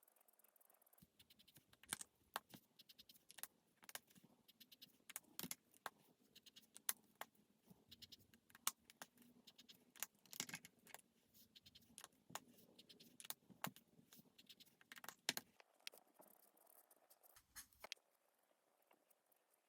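Alcohol markers and pen being handled: a dense run of small, sharp clicks and clatters of hard plastic caps and barrels. It starts about a second in and stops about three-quarters of the way through.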